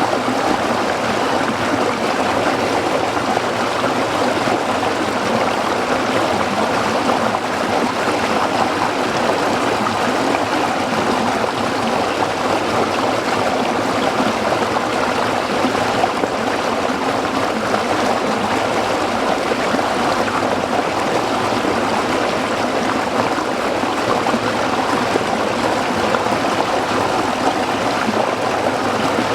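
Small stream flowing over rocks: a steady rushing and trickling of water that does not change.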